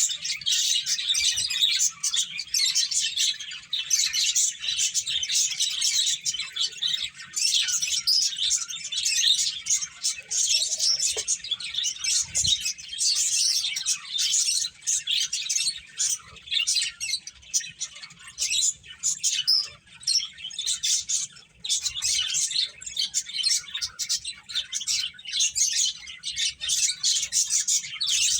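Pet finches chirping continuously, many short high calls following and overlapping one another in a busy chatter.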